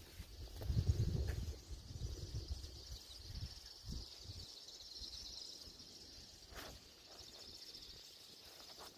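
A dense chorus of a large flock of birds singing and chattering at once, a continuous high twittering with no single song standing out. A low rumble sits under it for the first couple of seconds.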